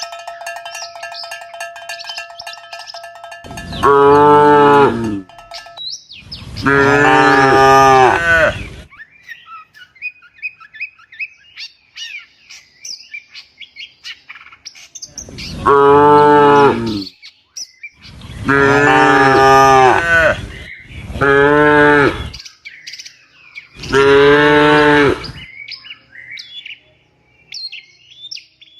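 Cattle mooing: six long, loud moos, each lasting one to two seconds, with small birds chirping in the gaps between them.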